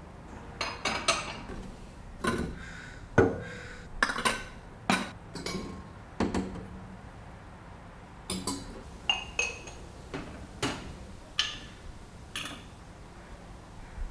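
Ceramic and glass dishes clinking and knocking as they are handled and set down, about fifteen irregular taps and clinks, some ringing briefly.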